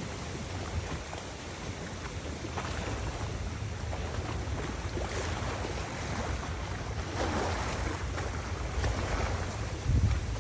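Wind buffeting the microphone: a steady low rumble under a noisy hiss that swells louder about seven seconds in.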